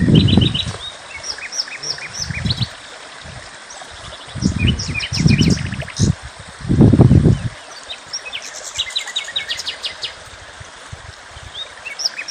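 Small songbirds chirping and twittering in quick short notes throughout. A few short low rumbling bursts, around the first half, are louder than the birds.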